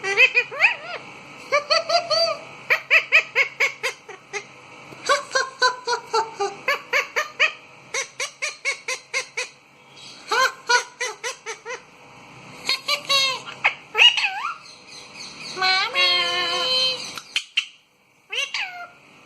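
Indian ringneck parrot calling and chattering in quick runs of short pitched notes, with a longer wavering call near the end.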